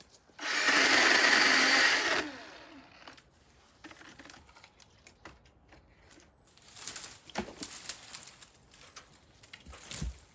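Milwaukee M18 battery chainsaw making a short cut through wood, about two seconds long. Light clicks and rustling follow, then a sharp knock near the end.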